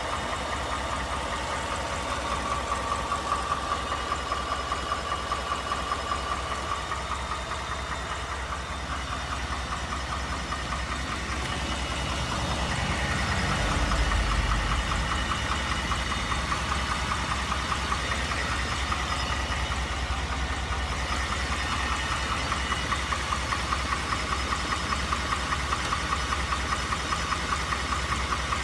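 2018 Ford F-150's 5.0 V8 idling with a rapid, regular knock, the owner's "typewriter noise", which grows louder over time. The dealer later traced it to the stock PCM under TSB 18-2354. The engine note swells briefly about halfway through.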